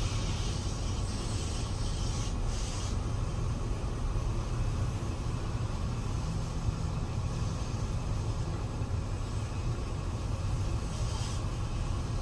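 Steady low rumble of a water tank truck's engine running, with a rushing hiss that swells in the first few seconds and again near the end.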